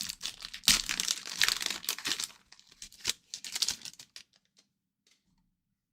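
Hockey card pack wrapper being torn open and crinkled in the hands, a dense run of crackling that thins out and stops about four and a half seconds in.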